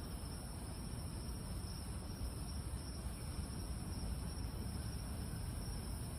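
Steady chorus of night insects such as crickets, a constant high-pitched chirring over a low, even background rumble.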